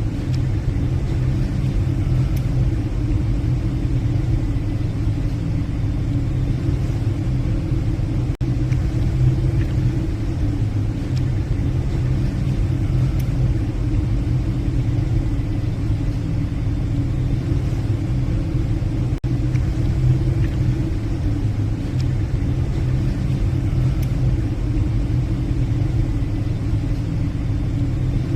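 Passenger ship's engines humming as a steady low drone, unchanging throughout, as heard on the bridge.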